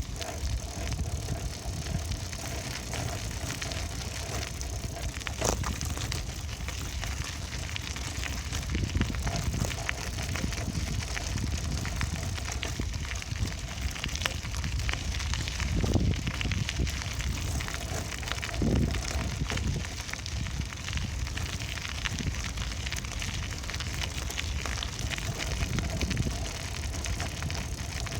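Wind buffeting the microphone and rumbling road noise from a moving bicycle, with scattered clicks and rattles.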